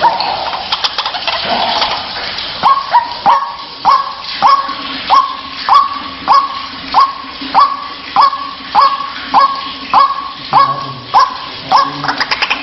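White-breasted waterhen (ruak-ruak) calling, as used in a lure recording. A rough, chattering stretch gives way after about two seconds to a long, even run of repeated croaking "kruwak" calls, about three every two seconds.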